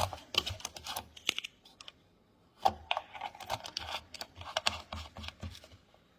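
Handling noise from a plastic milk jug and its partly opened foil seal: irregular crinkling and clicking in two spells, the second longer.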